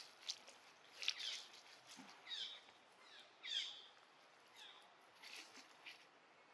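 A faint series of short, high-pitched animal calls, about one a second, each sliding downward in pitch.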